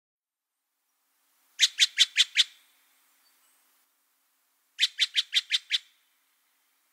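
A bird calling: two quick runs of five short notes each, about three seconds apart.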